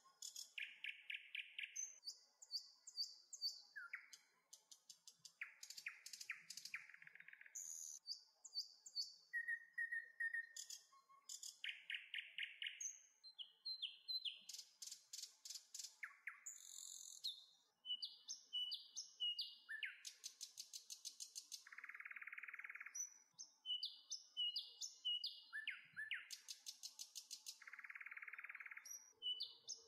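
Birds singing: a run of varied song phrases, trills, rapid series of short chirps and short whistled notes, following one after another.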